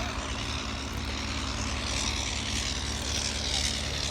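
The 1912 Blackburn Monoplane's rotary engine and propeller running steadily, a low, even engine drone.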